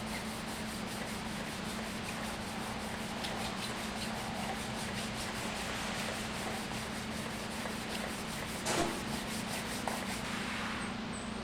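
Sandpaper wet sanding a wooden stave drum shell: a steady rubbing scratch, with one brief louder scrape about nine seconds in.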